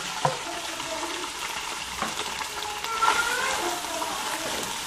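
Shredded boiled chicken sizzling in hot oil in a stainless steel pot as it is stirred, being sautéed, with a few knocks against the pot, the loudest about three seconds in.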